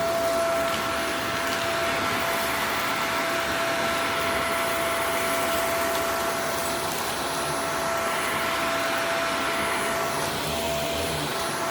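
Upright vacuum cleaner running on a rug, a steady motor whine over a rushing airflow, the higher part of the whine fading about ten seconds in.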